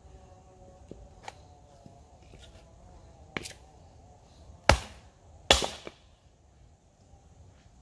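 A few sharp knocks or chops: a light one about a second in, a stronger one past three seconds, then two loud ones less than a second apart a little after the middle.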